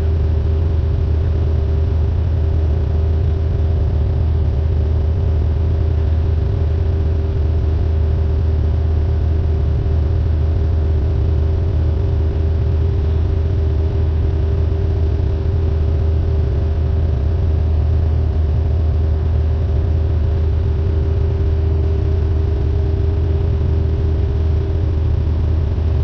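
Cessna 172N's four-cylinder piston engine and propeller running at a steady, unchanging power setting: a loud, even drone with a deep hum.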